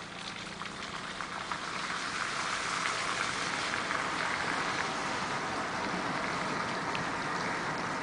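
Steady rain falling, with many small drop spatters. It grows louder over the first few seconds, then holds steady.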